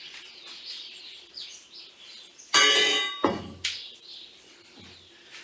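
A metal table frame is struck or set down with a loud clang about two and a half seconds in, ringing briefly. A couple of dull knocks follow, with birds chirping in the background.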